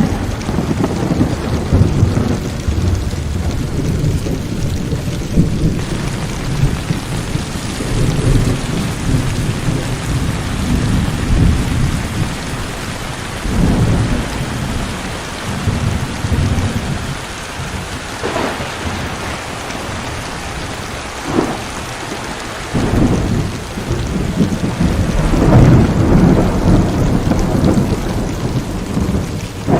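Heavy rain pouring steadily through a thunderstorm, with thunder rolling and rumbling again and again, a couple of sharper cracks in the middle and a loud roll near the end.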